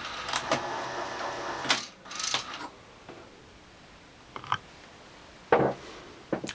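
Tape transport mechanism of a Panasonic NV366 VHS recorder whirring for about two seconds and then stopping, followed by a few sharp mechanical clicks, the loudest about five and a half seconds in.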